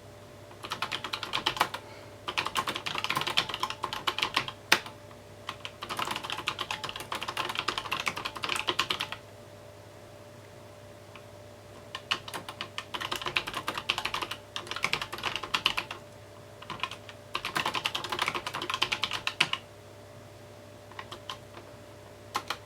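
Typing on a mechanical keyboard: quick runs of key clicks in bursts of a few seconds, broken by short pauses, with a longer pause about halfway through and a few scattered keystrokes near the end.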